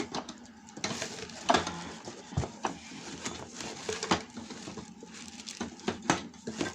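Plastic vacuum cleaner parts being handled and fitted together: irregular clicks, taps and clacks, with a few louder knocks.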